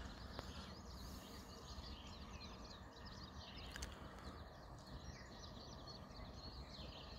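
Faint outdoor ambience: many short bird chirps over a low, steady background noise.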